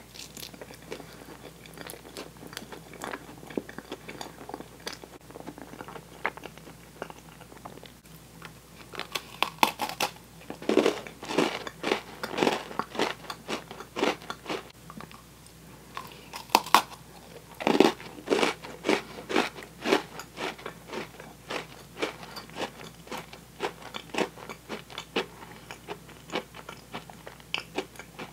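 Close-up eating sounds: sticky chewing of toasted marshmallow, then bites and crisp crunching as an Oreo cookie is chewed. The crunching comes in dense runs of sharp clicks, loudest about a third of the way in and again past the middle, then trails off into quieter chewing.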